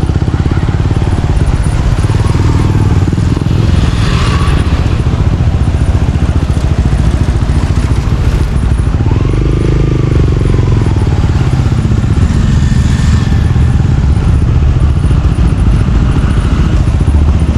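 A vehicle's engine running steadily while travelling along a road, a loud continuous low rumble with road and wind noise over it. A brief gliding tone sounds about ten seconds in.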